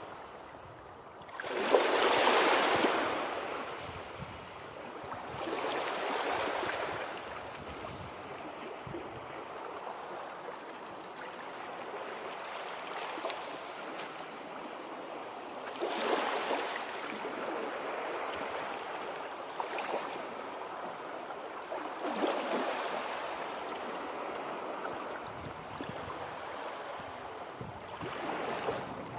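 Sea waves breaking in a slow, uneven rhythm, five surges of rushing surf with softer washing between them. The loudest crash comes about two seconds in.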